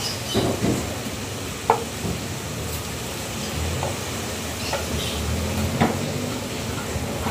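Chopped onion, tomato, curry leaves and pandan sizzling in oil in a pot on a gas stove. A few light knocks of a utensil come early on and again near the end.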